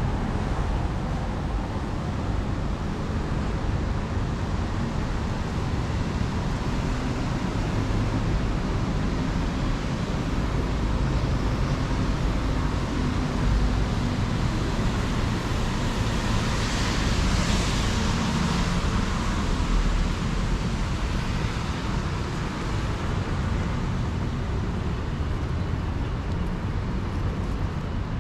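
Steady city street traffic noise, with one vehicle passing more loudly about two-thirds of the way through.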